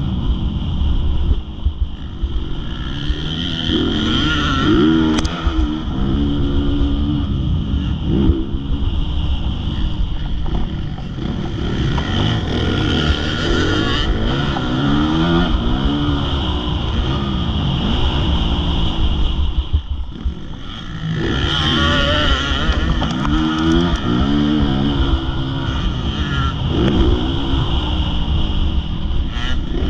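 Motocross motorcycle engine at racing throttle, its pitch climbing and falling over and over as the rider accelerates, shifts and backs off, with a brief lull about twenty seconds in before it picks up again.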